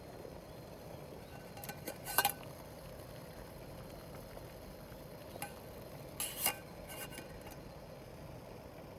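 Metal utensils clinking against camp cookware: a few short chinks about two seconds in and another cluster around six seconds in, some ringing briefly, over a low steady background.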